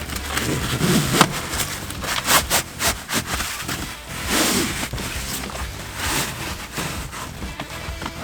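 Seat cover fabric being pulled down tight over a truck's rear seat back: irregular scraping and rubbing of cloth against the upholstery, in several separate tugs.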